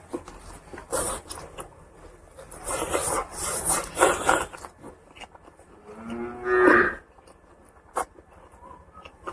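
Wet, close chewing and smacking as a man eats a handful of pork curry and rice. About six and a half seconds in comes the loudest sound, a short rising voiced call under a second long, and near the end a single sharp click.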